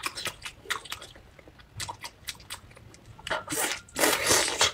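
Close-miked eating sounds: biting and chewing a large braised octopus, with many small wet mouth clicks and smacks. The biting and chewing grows louder for about the last second and a half.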